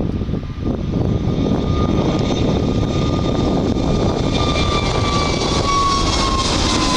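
Airliner engines passing close: a heavy, steady rush that builds in its upper range, with a thin whine that slowly falls in pitch as the aircraft goes by.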